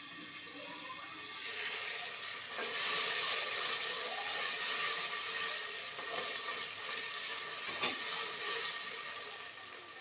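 Sautéed onions in hot oil with a few spoons of water sizzling and hissing in a steel pot, the hiss growing louder about two seconds in. A spoon stirs them, with one light tap of metal on the pot near the end.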